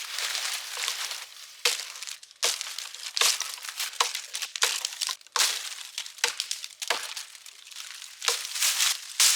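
Dry debris crunching and crumpling in irregular bursts, several sharp crunches a second at times.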